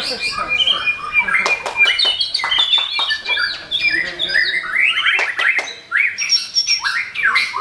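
Several caged songbirds singing at once in a dense, overlapping chorus of quick whistles, rapid trills and chirps, broken by sharp clicking notes.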